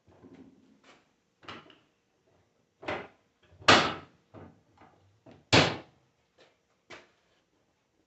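A series of irregular knocks and clunks, about a dozen in all, the two loudest near the middle with a short ringing tail.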